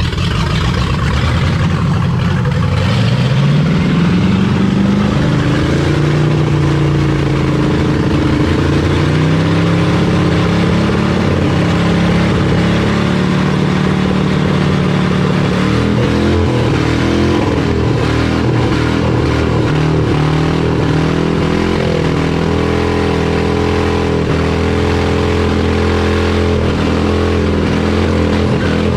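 Ford Crown Victoria's V8 engine running, revved up about two to three seconds in and then held at raised revs that wander up and down. The engine is running strongly again after popcorn kernels sucked into the intake had left it with no compression.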